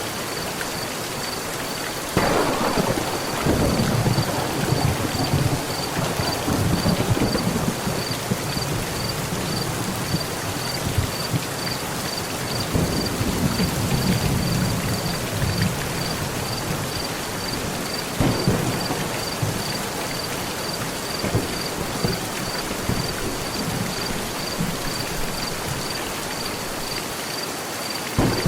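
Heavy rain falling steadily on a metal roof. Thunder cracks about two seconds in and rolls into a long low rumble. Another rumble comes in the middle, a further crack a little past halfway, and a short clap near the end.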